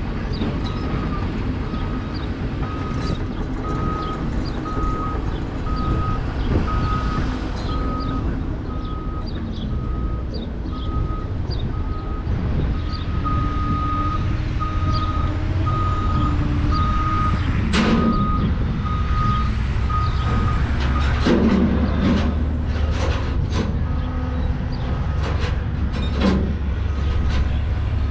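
A heavy truck's backup alarm beeping about once a second over its diesel engine running, the beeping stopping about three-quarters of the way through as the engine rumble grows. A short loud hiss sounds shortly before the beeping stops, with a few more short noises after.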